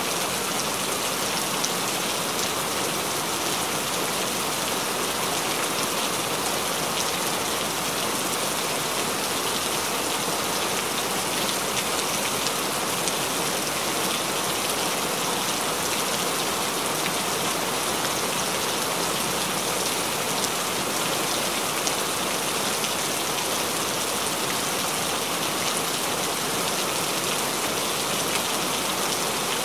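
Steady rain falling on a wet surface: an even hiss of many drops, with scattered sharp drop ticks through it.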